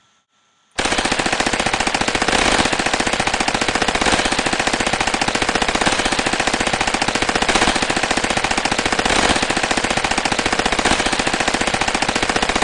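Sustained rapid automatic machine-gun fire: a dense, unbroken stream of shots starting about a second in and stopping abruptly near the end, about twelve seconds long.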